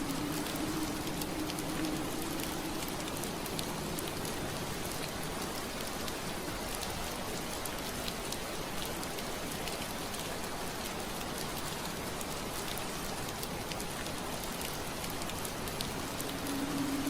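Steady soft rain pattering on window glass, an even hiss flecked with small drop ticks. A low steady hum is present for the first few seconds, fades out, and returns near the end.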